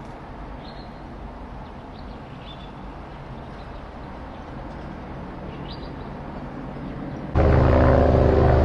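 Steady low rumble of a distant aircraft overhead, with a few faint bird chirps. Near the end it cuts suddenly to the much louder, steady drone of a helicopter flying low overhead.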